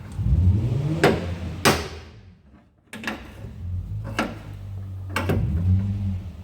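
Sharp metal knocks on a car's dented rear body panel while it is being worked back out, about five of them roughly a second apart, one ringing on briefly, with a low rumbling between the strikes.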